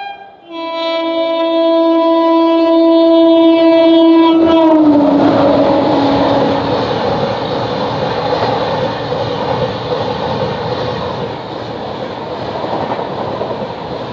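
Locomotive air horn sounding one long blast, its pitch dropping about five seconds in as the engine passes. Then the steady rush and rattle of an express train's coaches going by at speed.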